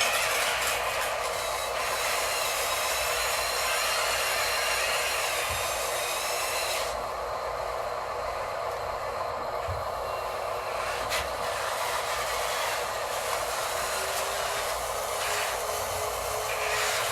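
Small electric motors and gears of radio-controlled construction models running, a steady mechanical whir with a whine that glides up and down in pitch. The high hiss drops away about seven seconds in and comes back a few seconds later.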